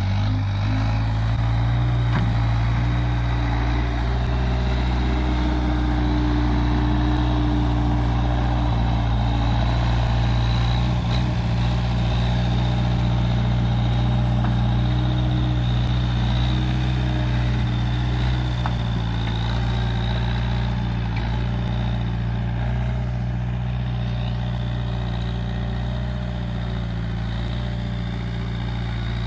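Case 580G backhoe loader's diesel engine running steadily.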